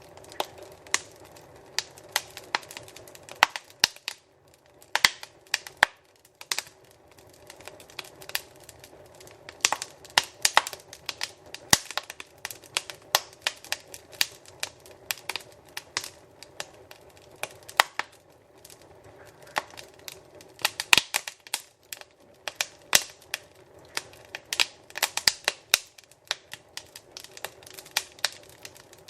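Wood fire crackling in a fireplace: irregular sharp pops and snaps, several a second, over a low steady hiss of burning.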